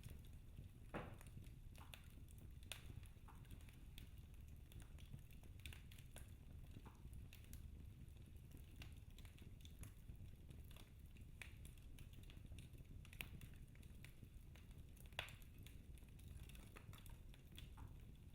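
Wood fire burning in a fireplace, crackling faintly with scattered irregular pops over a low steady rumble; the sharpest pop comes about fifteen seconds in.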